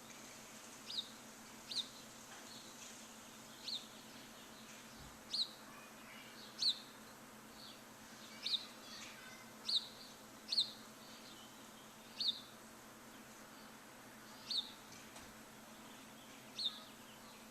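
A bird chirping over and over, about a dozen short, sharp notes each dropping quickly in pitch, spaced a second or two apart, over a steady background hiss.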